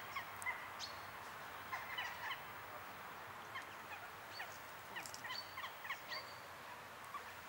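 Faint outdoor ambience with scattered short bird calls, brief high chirps coming every second or so over a soft steady hiss.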